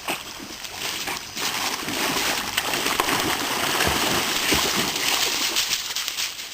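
Dogs splashing in creek water: an irregular, continuous splashing that grows louder about two seconds in and eases off near the end.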